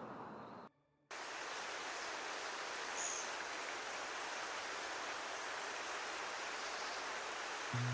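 Steady rush of flowing water, cut off briefly about a second in and then resuming, with one faint high chirp partway through.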